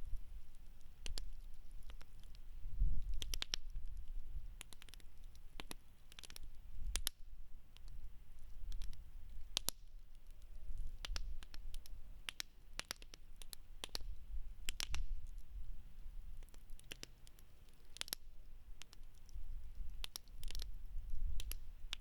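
Wood campfire crackling: sharp, irregular pops and snaps of burning logs, scattered a few a second, over a low, uneven rumble.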